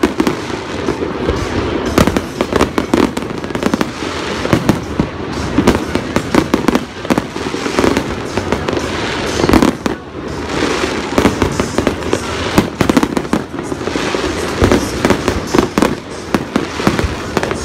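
Aerial fireworks shells bursting in quick succession: a dense run of bangs and crackles, with a brief lull about ten seconds in.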